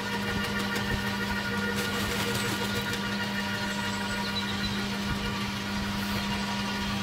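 Electric garden shredder running steadily with a constant motor hum as spruce branches are fed through, with a few faint clicks of wood being chopped in the first half.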